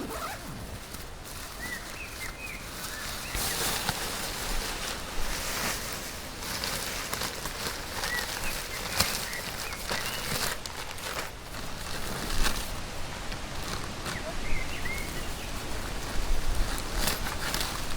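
Outdoor ambience: a steady hiss with scattered rustles and sharp clicks, and a few short high bird chirps now and then.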